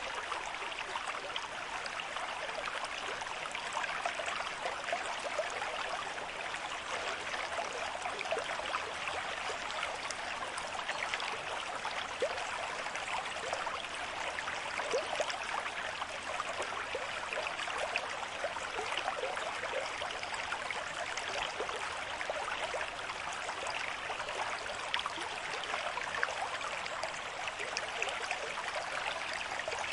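River stream at moderate flow: steady rushing and babbling of water over stones, with many small splashes and gurgles through it.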